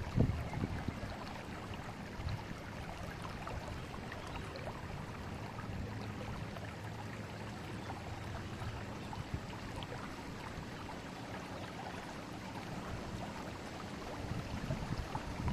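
River water flowing, a steady even rush of running water.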